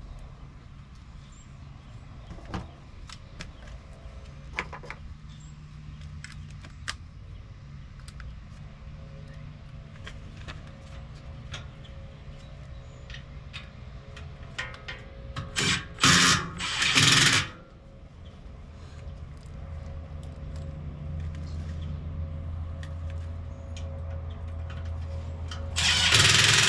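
Small clicks and knocks of hand work on an air-conditioner condenser over a steady low hum, broken by two short, loud bursts of a cordless power tool, one about two-thirds of the way through and one at the very end.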